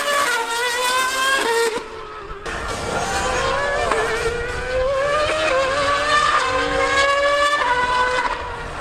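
A 2013 V8 Formula One car and a Yamaha R1M superbike racing, their engines at high revs and climbing in pitch with sharp drops at each upshift, one clear dip about two seconds in.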